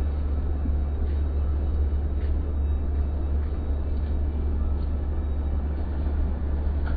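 Steady low rumble of a car on the move: engine and road noise, unbroken throughout.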